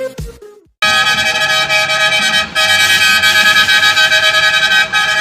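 Electronic dance music stops abruptly in the first second. Then a truck's multi-tone air horn sounds a loud, sustained chord, breaking off briefly about two and a half seconds in and carrying on.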